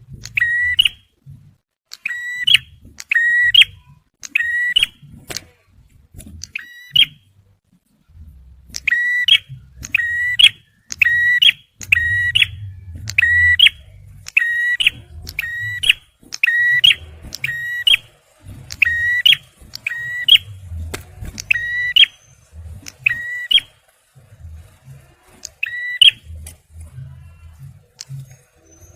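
Male prenjak merah (ciblek, a prinia) giving its loud 'tembakan' call: short, sharp, high notes repeated about twice a second in runs, with a short pause about six seconds in, and trailing off near the end.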